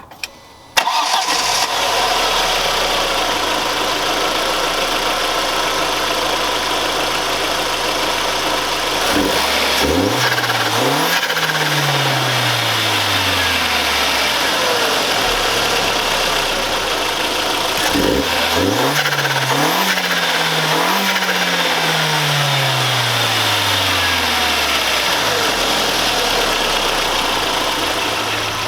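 Audi A4 B5 1.8T turbocharged four-cylinder with an open aFe cone air filter, idling and then revved twice, each time in two quick blips, before the pitch falls back to idle. The intake and turbo sound comes through the open filter.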